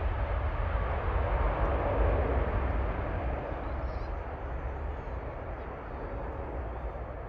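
Jet airliner engine noise, a broad rush with heavy low rumble that swells slightly about two seconds in and then fades gradually as the aircraft moves away.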